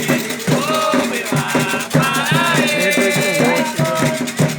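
Devotional chant sung by voices over a rattle shaken in a quick, steady rhythm: Candomblé ritual music for Xangô.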